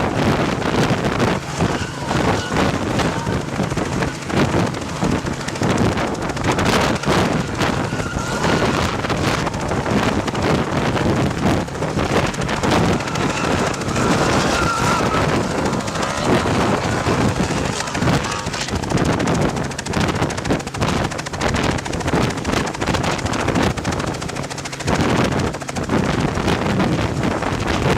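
Helicopter in flight, its rotor and engine running steadily, with wind buffeting the microphone.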